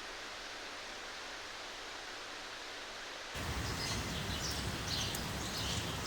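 Steady hiss of rain. A little over three seconds in it cuts abruptly to a louder outdoor ambience: birds chirping over a low rumble.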